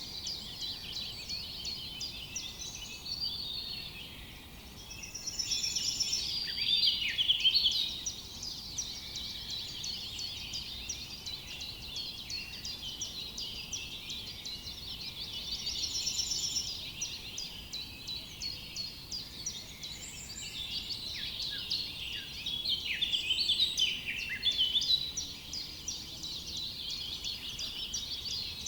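Dense forest chorus of many songbirds: overlapping rapid chirps and trills throughout, with louder song swelling up about six seconds in and again in the last few seconds.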